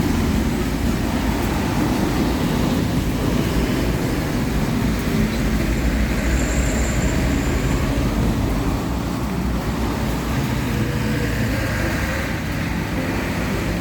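Steady low rumble of passing vehicles, easing slightly near the end.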